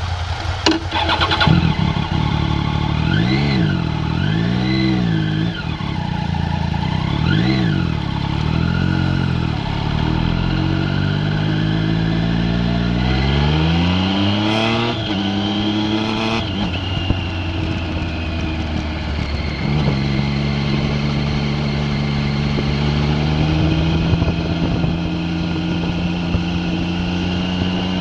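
A vehicle engine revved in several quick blips, then accelerating with a long rising pitch that breaks off at a gear change about halfway through, then running more steadily with a couple of smaller steps in pitch.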